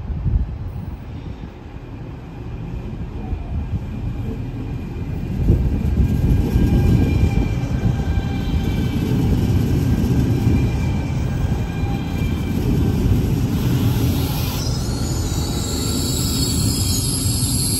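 SBB ETR 610 (Astoro) electric multiple unit rolling slowly into the platform as it arrives, a low rumble of wheels on track that grows louder about five seconds in as the coaches pass close, with thin high whining tones above it.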